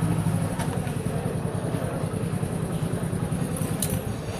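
A motor vehicle engine running steadily, a low pulsing rumble under general noise, with a sharp click near the end.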